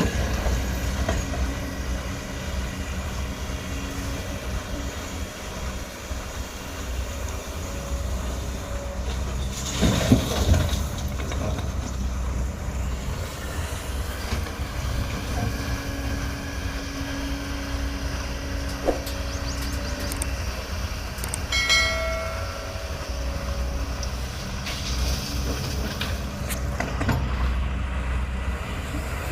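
Excavator's diesel engine running with a steady low rumble, with a loud clatter about ten seconds in and a brief high squeal a little after twenty seconds.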